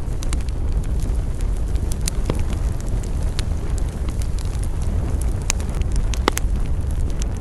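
Wood campfire burning with a steady low rumble and scattered crackles and sharp pops, a couple of louder pops near the end.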